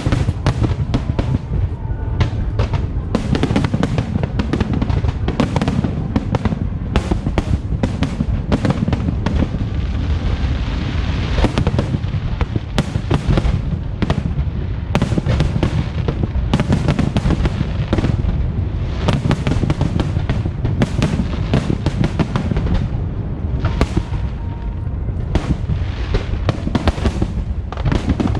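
Aerial fireworks going off in rapid, overlapping bangs and booms, with a stretch of crackling about ten seconds in. Music plays underneath.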